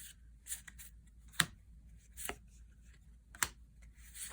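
Magic: The Gathering trading cards being flicked through one at a time from a booster pack, giving sharp, irregular card snaps and light rustling.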